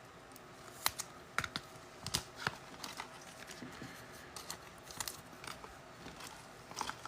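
Irregular light clicks and taps, a dozen or so short sharp ones spread out, from trading cards and card holders being handled and set down.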